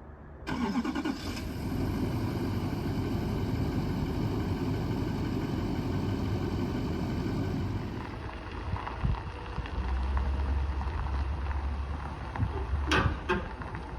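An engine starts about half a second in and then runs steadily. A few sharp knocks come near the end.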